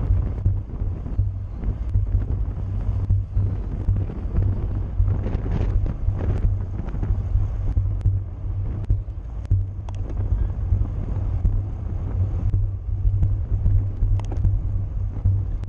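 Wind buffeting the microphone of a camera carried on a racing bicycle at speed: a steady, fluttering low rumble.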